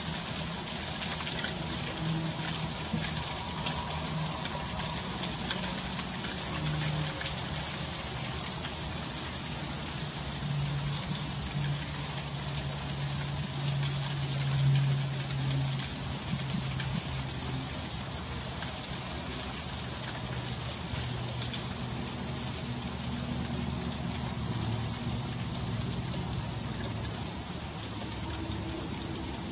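Freezing rain falling steadily, a dense hiss of fine ticking drops on icy surfaces. A low steady hum runs underneath.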